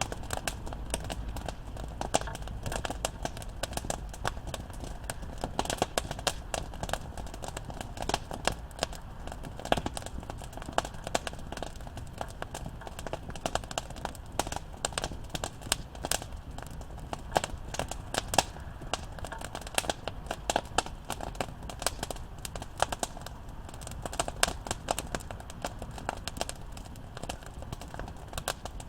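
Wood campfire crackling: a dense, irregular stream of sharp snaps with scattered louder pops over a low rumble.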